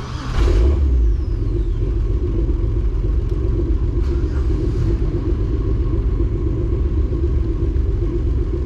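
Car engine running with a loud, low rumble that surges louder about half a second in and then holds steady.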